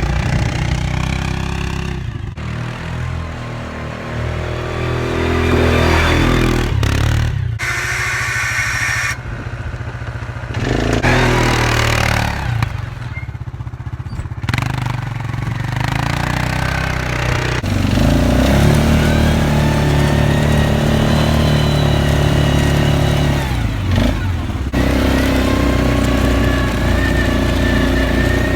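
Four-wheeler (ATV) engine running under load, revving up and easing off again and again, with several abrupt changes where the sound cuts to a different pitch.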